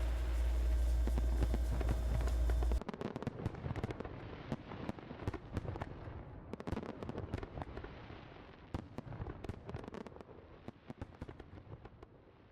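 Fireworks going off: a deep rumble with crackling that cuts off abruptly about three seconds in, then a dense run of many sharp crackling pops that slowly fades out.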